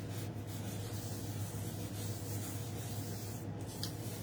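Steady low hum and hiss of room noise, with faint rustling and a few light clicks near the end from paper craft materials being handled.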